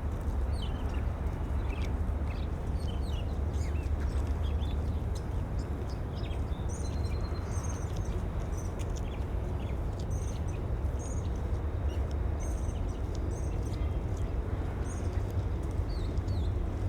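Small birds chirping and twittering in short repeated phrases over a steady low rumble.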